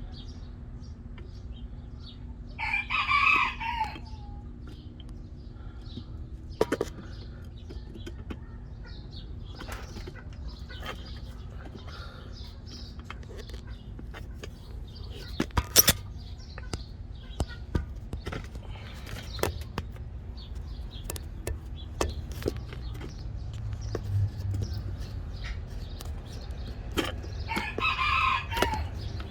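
A rooster crowing twice, about three seconds in and again near the end, each crow lasting over a second. Between the crows there are scattered clicks and knocks, the sharpest about sixteen seconds in, over a faint steady hum.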